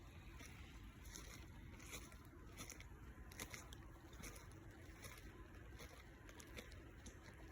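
Near silence: a faint low rumble with scattered soft clicks.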